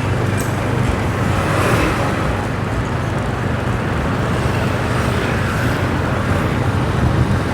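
Motorbike under way: its engine running with a steady low hum, mixed with the noise of the street traffic around it.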